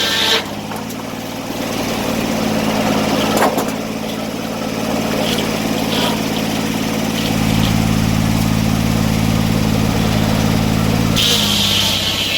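Sawmill engine running steadily. A higher hiss cuts off about half a second in and comes back near the end, and the engine's low drone grows heavier about seven seconds in.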